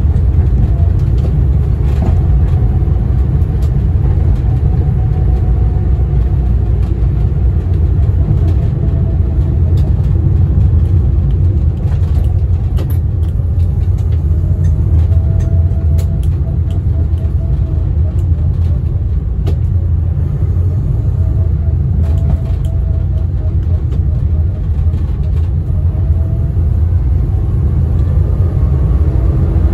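The 1098cc A-series engine of a 1975 Austin Allegro Mk1, heard from inside the cabin while the car is being driven. A steady low rumble runs underneath the A-series four-speed gearbox whine, which rises and falls in pitch with road speed.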